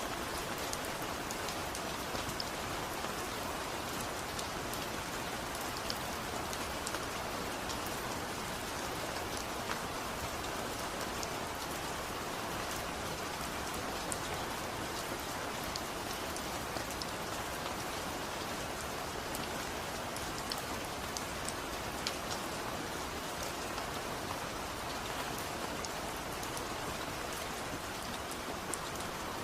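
Steady rain: an even hiss of falling rain with scattered small ticks of drops.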